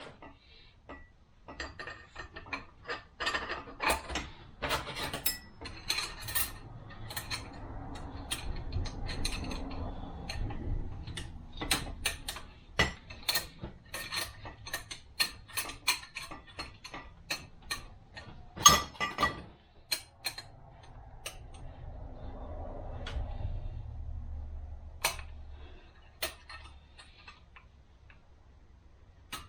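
Metal parts of a 42RE automatic transmission clicking and knocking irregularly as they are handled and fitted together by hand, with one louder knock a little past two-thirds of the way through and a low rumble underneath at times.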